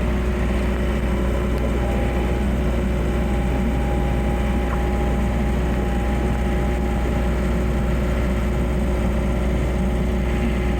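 Skid steer loader's engine running steadily, with a constant low drone.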